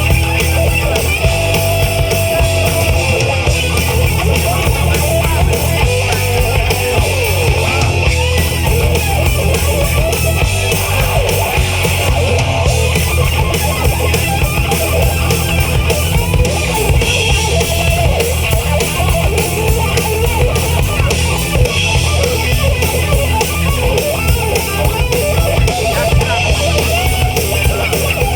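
Rock band playing a loud heavy-metal number: electric guitars over bass guitar and drum kit.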